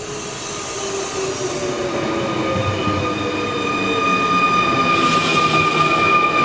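Double-deck SNCF TER electric train approaching and passing close by, its running noise growing steadily louder. A steady high whine comes in about two seconds in and strengthens, and a burst of hiss follows about five seconds in as the cars go past.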